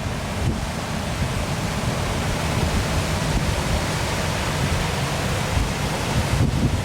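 Waterfall pouring steadily, an even rushing hiss of falling water, with wind rumbling on the microphone.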